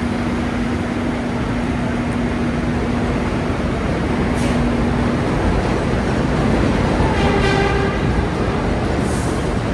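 Loud, steady rumble of a passing subway train, with a short pitched tone about seven seconds in.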